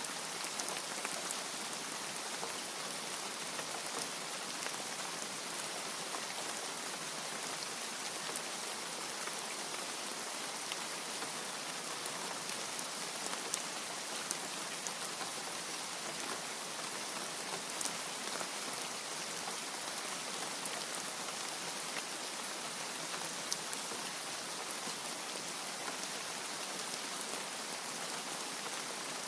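Steady rain falling: an even, dense hiss with scattered sharper drop ticks here and there.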